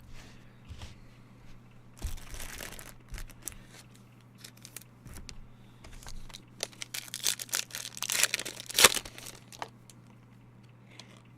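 Trading card packaging being torn open and crinkled by hand, in crackly bursts about two seconds in and again from about six to nine and a half seconds.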